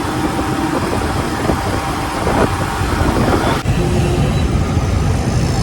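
Yamaha FZ motorcycle running along a city road, its engine rumble mixed with wind and traffic noise. The sound breaks off sharply about three and a half seconds in, then carries on.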